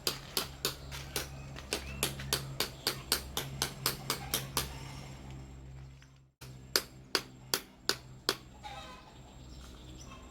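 A hand tool is being worked on the battery fittings, giving sharp clicks about three a second over a low steady hum. After a break about six seconds in come five slower clicks.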